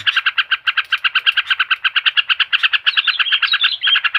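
Rapid, evenly pulsed chattering bird call, about ten notes a second, from a bird-lure recording used to get a yellow-vented bulbul (trucuk) singing; some higher notes come in about three seconds in.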